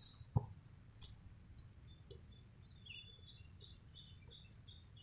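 A single sharp thump about half a second in, then a bird chirping in a quick run of short high notes over a low steady background rumble.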